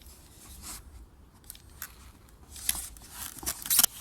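Unpacking noise: items and packaging handled and rustled, with light scrapes and clicks and a louder burst of rustling near the end.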